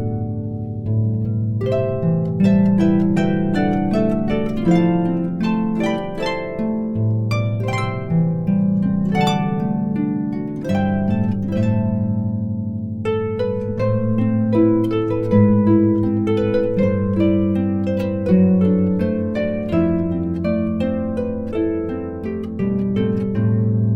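Instrumental harp music: a pop melody played on plucked harp strings over a steady bass.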